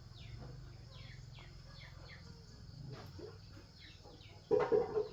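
Bird calling outdoors: a string of short chirps that fall in pitch, about two a second, over a low background hum. Near the end a louder, brief pitched sound cuts in.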